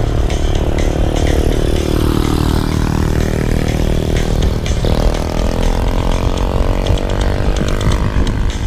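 Motorcycle engine slowing, its revs falling, then jumping up about five seconds in as it downshifts and easing down again, with wind buffeting the helmet-mounted microphone.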